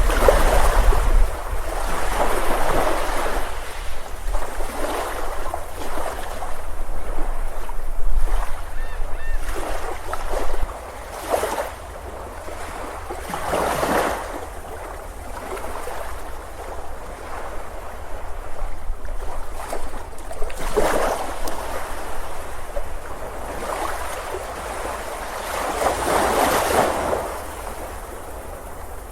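Ocean surf breaking and washing up a beach, swelling and fading every few seconds, with a low rumble of wind on the microphone that is strongest near the start.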